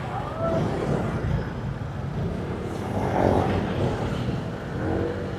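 Motorbike riding on a road: the engine runs under steady wind and road noise on the rider's microphone. The sound of passing traffic swells about three seconds in, and a rising engine note comes near the end.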